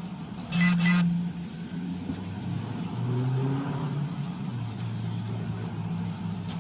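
Car engine running steadily, its tone rising a little about three seconds in. A brief loud noise cuts in about half a second in.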